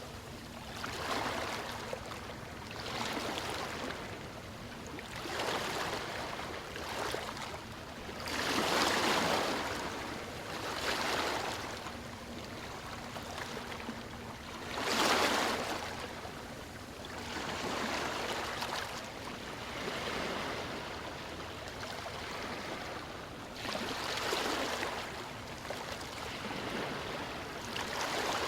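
Ocean waves washing onto a shore: a rush of surf that swells and recedes every few seconds, with bigger waves breaking about a third and about halfway through.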